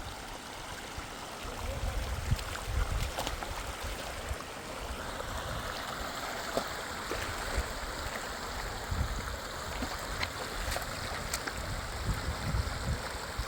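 Rushing water of a fast river, a steady wash of noise, with uneven low rumbles and a few faint clicks.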